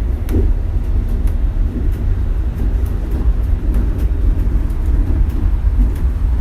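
Shonan Monorail suspended monorail car running between stations, heard inside the car: a steady, loud low rumble from the rubber-tyred bogies in the overhead track beam, with rattling and scattered light clicks.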